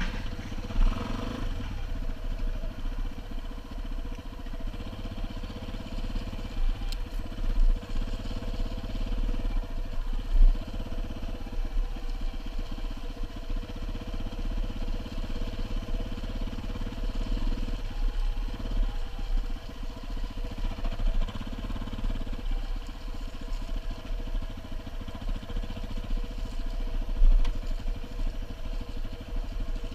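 Single-cylinder dual-sport motorcycle engine running steadily while being ridden, with a few brief louder knocks along the way.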